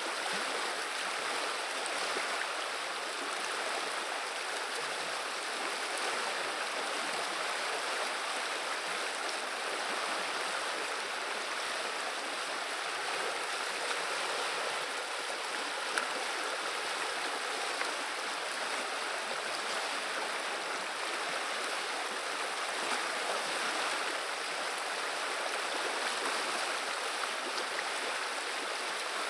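River water running and babbling steadily, with a few faint ticks of drops near the middle.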